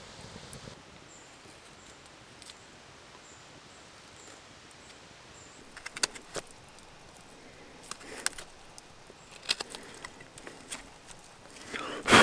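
Quiet outdoor background, then scattered sharp clicks and knocks from about halfway through, the loudest one right at the end.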